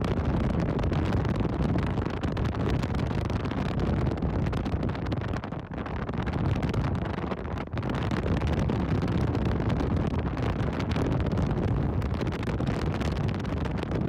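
Wind buffeting the microphone: a steady low rumble with rapid flutter, dipping briefly twice near the middle.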